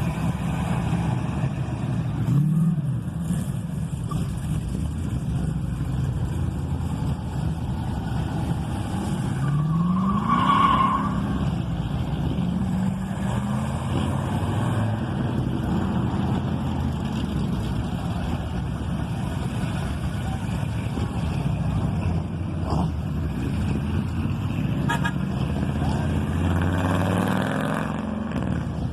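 Car engines running steadily, with engine revs rising a couple of times and a short horn toot about ten seconds in.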